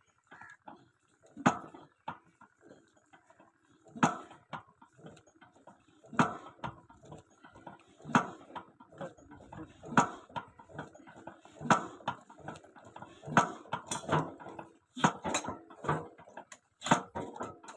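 Repeated sharp metal knocks or clanks, about one every two seconds, coming closer together near the end.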